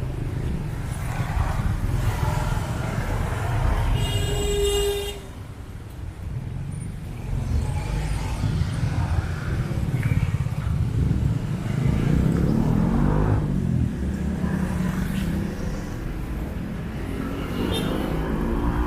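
Street traffic: car and motorcycle engines running and passing close by, with a steady low rumble. A brief high-pitched tone sounds about four seconds in, and engines rev up audibly a little past the middle and near the end.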